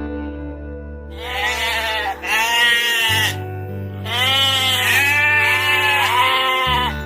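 Goat bleating about five times in a row, each call about a second long and wavering in pitch, the first starting about a second in. Background music with steady low notes plays underneath.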